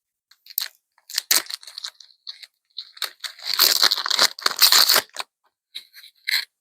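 Foil booster pack wrapper being torn open and crinkled: a few sharp crackles, then a dense burst of crinkling and tearing for about two seconds, then a few more crackles near the end.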